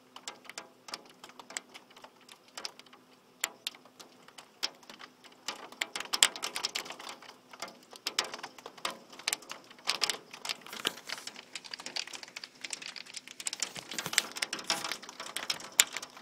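Heavy rain and pea-sized hail pelting a hard surface: a dense patter of sharp ticks that grows much thicker and louder about five seconds in.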